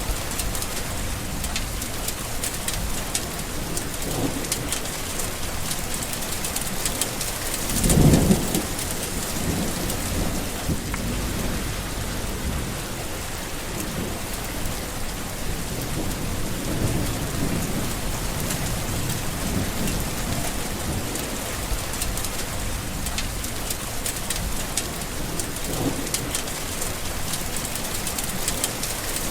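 Steady rain falling, with thunder rumbling in the distance several times. The loudest thunder peal comes about eight seconds in.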